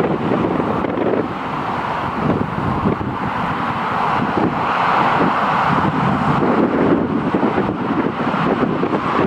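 Steady rumble of aircraft engines at the airport, swelling a little mid-way, with wind buffeting the microphone.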